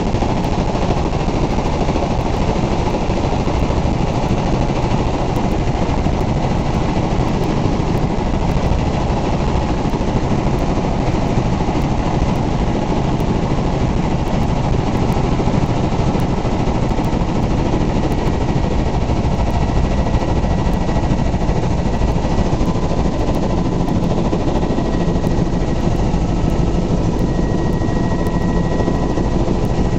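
Helicopter in flight: loud, steady rotor and engine noise with a faint high whine held throughout.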